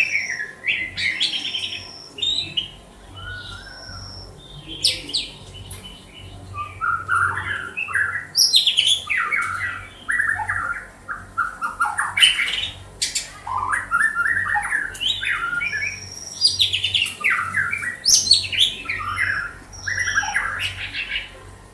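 White-rumped shama singing: bursts of rapid, varied chattering phrases mixed with short clear whistles, broken by brief pauses.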